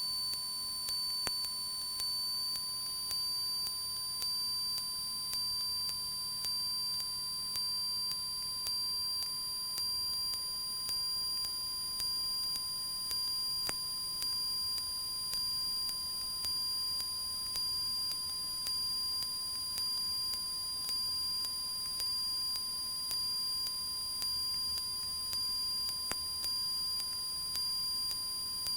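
Steady electronic tones in the audio feed: a 1 kHz tone with higher-pitched whines above it over a faint hiss, and a small tick about once a second. No engine or voices are heard.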